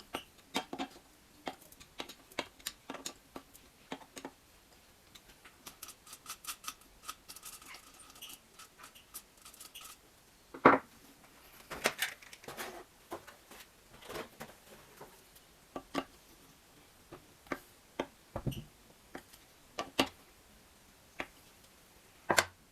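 Hand tools and small engine parts being handled: irregular clicks and light knocks, with a stretch of scraping about a third of the way in.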